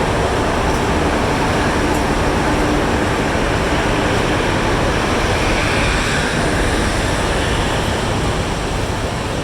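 Loud, steady rumbling noise of a train at a railway station platform, even and unbroken.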